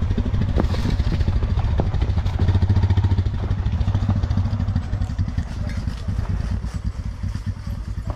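Royal Enfield Himalayan's single-cylinder engine running at low revs with a steady, rapid thud of firing pulses and a few clattering knocks, gradually getting quieter toward the end.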